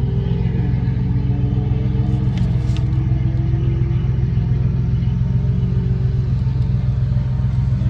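A stock 4.3-litre V6 pickup engine running at low revs, a steady low rumble whose pitch dips about half a second in and then drifts slowly.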